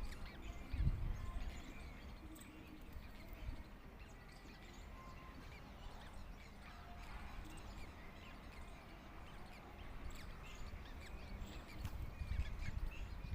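Birds chirping faintly in many short, scattered calls, with low rumbles near the start and again near the end.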